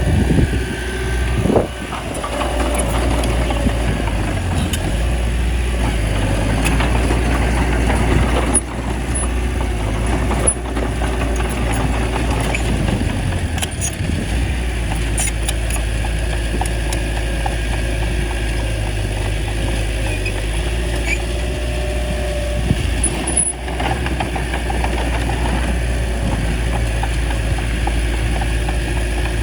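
Small bulldozer's diesel engine running steadily, a constant low rumble, with occasional sharp knocks and clanks from the machine.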